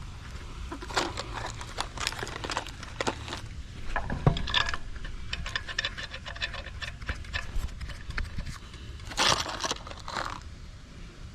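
Scattered clinks, knocks and scrapes of hands handling metal parts and tools, with a louder scrape about nine seconds in and a shorter one about a second later.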